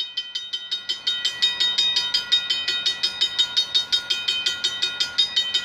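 Railroad crossing bell ringing fast and steadily, about six or seven strikes a second, as the crossing signals warn of an approaching train.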